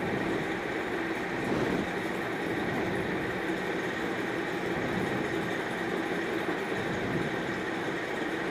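Steady sizzle of hyacinth beans and potatoes frying with spices in a pan.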